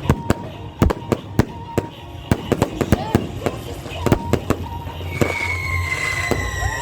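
Fireworks going off in rapid, irregular sharp cracks and bangs, several a second. From about five seconds in, a high whistle sounds and slowly falls in pitch over the bangs.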